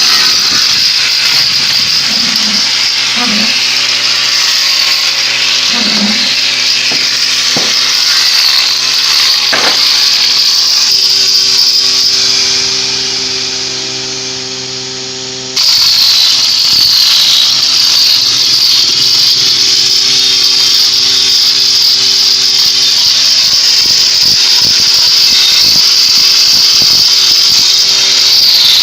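Electric power tool running steadily, a motor hum under a strong high-pitched hiss. The sound eases off a little past the middle, then comes back abruptly at full level.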